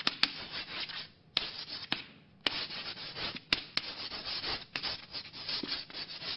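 Repeated rough rubbing or scraping strokes, each about a second long with a sharp click at its start and short pauses between them.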